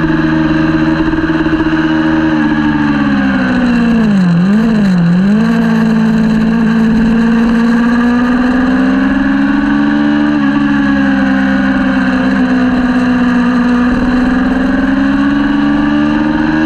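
Kawasaki Ninja 400's parallel-twin engine running hard at high revs, the pitch dipping sharply twice in quick succession about four to five seconds in, then sagging and slowly climbing again.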